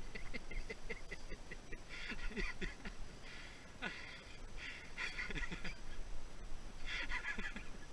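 Wild bird calls in about four short, harsh bursts, with fainter lower calls in between.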